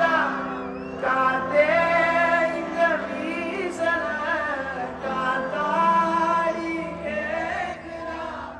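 A singer's voice with instrumental backing: a Tamil film song performed live at a concert.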